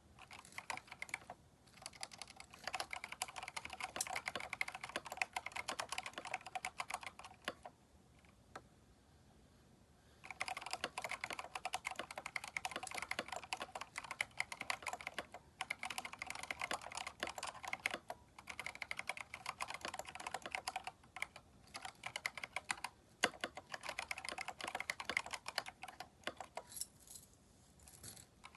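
Typing on a Keychron K4 mechanical keyboard fitted with aftermarket keycaps: fast, continuous runs of key clicks, broken by a pause of about two seconds roughly a third of the way in and slowing to scattered keystrokes near the end.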